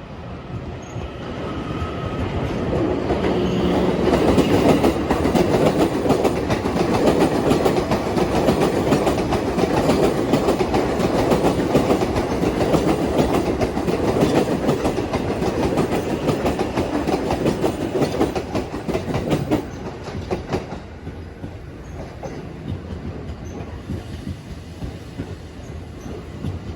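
E001 series TRAIN SUITE Shiki-shima cruise train pulling out of the station and running past, its wheels clattering over rail joints. The rumble builds over the first few seconds, stays loud, then drops away sharply about twenty seconds in.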